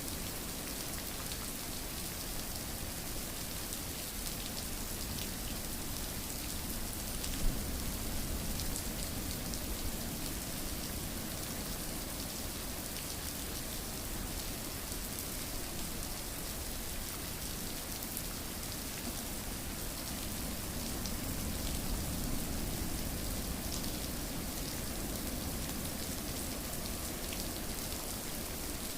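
Steady rain falling, with scattered drop ticks and one sharper tick about seven and a half seconds in.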